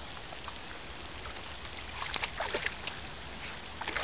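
Water splashing and dripping as a young golden retriever wades and moves in a creek, over a steady rush of running water; the splashes start about halfway through and grow busier toward the end.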